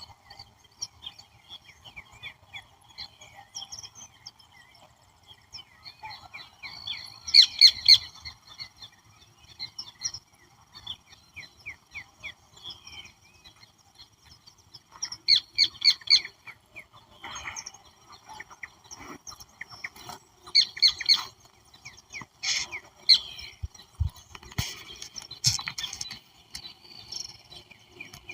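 Several wild birds calling and singing, with loud bursts of rapid chirps every few seconds, over a steady high insect drone.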